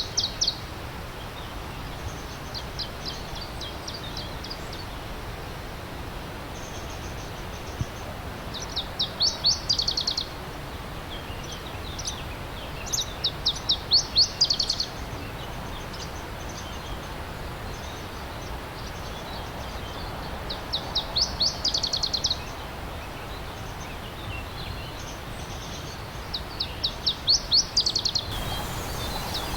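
A songbird repeats a short, quick series of high notes every few seconds. Under it runs the steady rushing of a stream.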